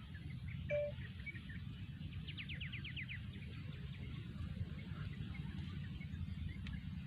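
Small birds calling over a steady low background rumble. There is one short call about a second in, then a quick trill of about eight rapid chirps a little past two seconds in.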